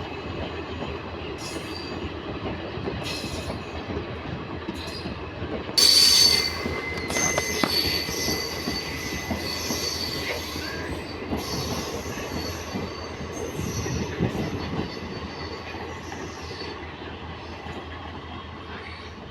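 A train running past with a steady rumble of wheels on the rails. About six seconds in, a loud high-pitched metallic wheel squeal starts and then fades over the next few seconds.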